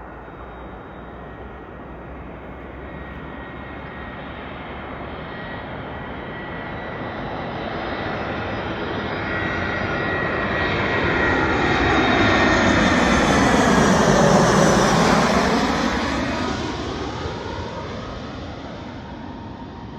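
An Air Cairo airliner on landing approach flying past, its engines growing steadily louder, loudest about two-thirds of the way through, then fading away, with a high engine whine over a broad rush.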